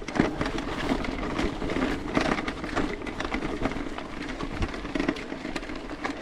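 Mountain bike rolling along a dirt truck trail: tyres crunching on gravel, with irregular clicks and rattles from the bike.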